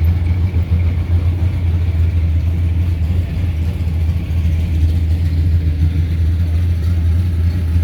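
A car engine idling close by: a steady low rumble that holds the same pitch throughout.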